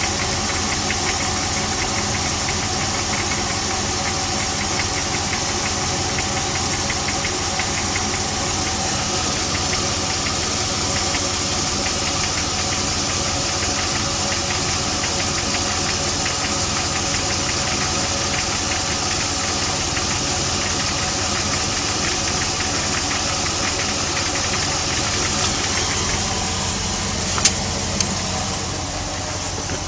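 Jeep Grand Cherokee WJ's 4.7-litre HO V8 running steadily with a rapid knocking: cold-start piston slap, which the owner says is normal for the HO. A single sharp click near the end.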